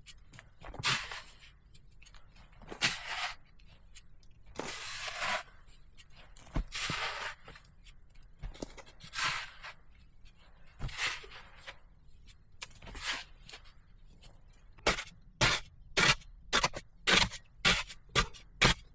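Repeated rough scraping strokes, about one every two seconds at first, then quickening to about two a second from about fifteen seconds in.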